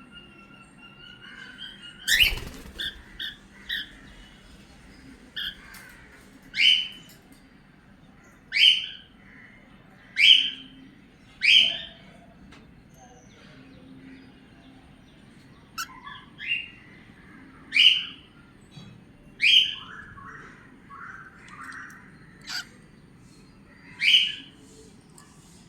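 Pet cockatiel calling: a held whistle at first, then a series of short, sharp, high-pitched chirps, about a dozen, spaced irregularly a second or two apart.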